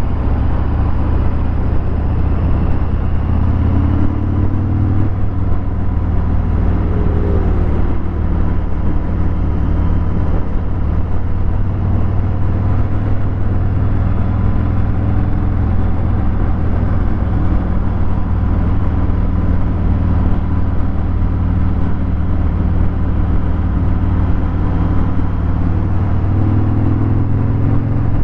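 Harley-Davidson Fat Bob 114's Milwaukee-Eight 114 V-twin running at low, steady revs through a Vance & Hines Hi-Output 2-into-1 exhaust, a deep, loud rumble. The revs rise briefly about four seconds in and again near the end.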